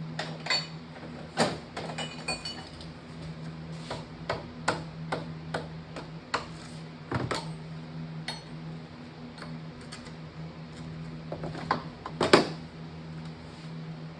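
Metal hand tools clinking and tapping against engine parts, a string of sharp irregular knocks with the loudest one about twelve seconds in, over a steady low hum.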